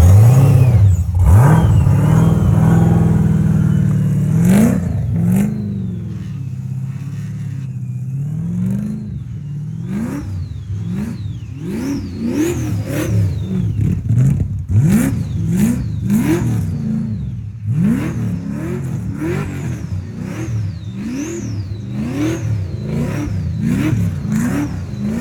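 Supercharged engine in a GM G-body car revving hard, first held high for a few seconds, then blipped up and down in quick repeated revs about once a second. A high supercharger whine rises and falls with each rev.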